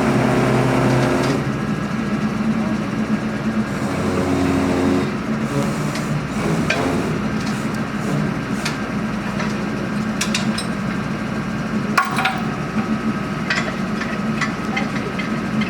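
Borehole drilling rig's engine running steadily, with metal knocks and clanks as the drilling gear is handled; the sharpest knock, about twelve seconds in, leaves a brief metallic ring.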